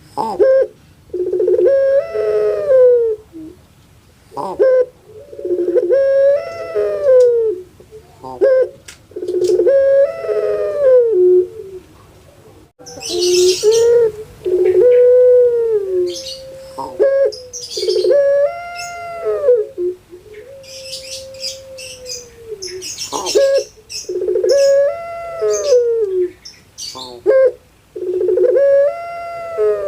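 Puter pelung dove (Barbary dove) cooing again and again: long, drawn-out rolling calls that rise and fall, about one every three to four seconds. High, short chirps from other small birds come in around the middle.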